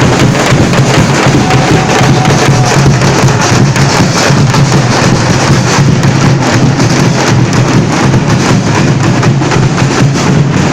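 Loud, dense percussion music: drums beaten continuously in a fast, unbroken stream of strokes.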